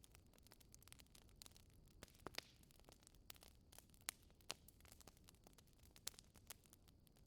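Wood fire crackling softly with many small snaps and a few sharper pops, the loudest about four seconds in.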